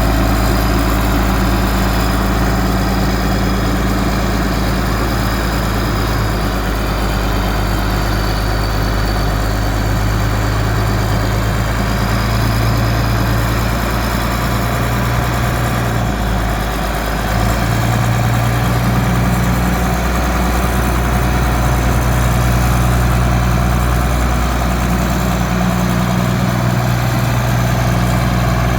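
Shantui motor grader's diesel engine running steadily at idle, with a brief dip and then a slightly higher, louder note about seventeen seconds in. The engine and gearbox are newly fitted and being test-run.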